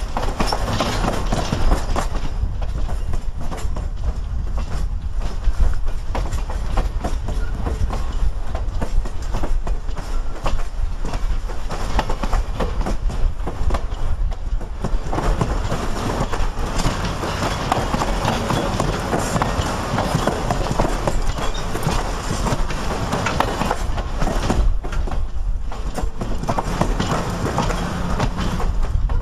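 A long train of stainless-steel passenger cars rolling steadily past. The steel wheels click over rail joints above a continuous rumble.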